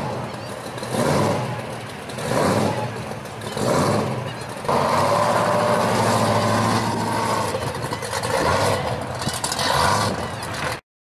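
Supercharged V8 of a second-generation Chevrolet Camaro pro street car, blipped in short revs about once a second, then pulling away at a steady, loud, even exhaust note from about five seconds in. The sound cuts off suddenly just before the end.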